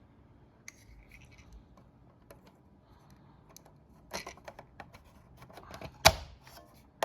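Small clicks and knocks from handling a model train locomotive, with one sharp, louder knock about six seconds in.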